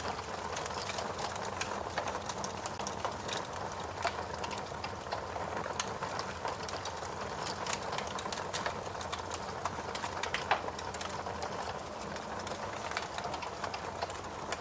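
Wood fire crackling steadily, with irregular snaps and pops over a low hiss and a sharper pop about ten seconds in.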